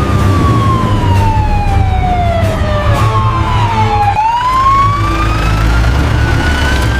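Emergency vehicle siren wailing slowly, over a low engine rumble. Its pitch falls in one long sweep for about four seconds, then rises again toward the end.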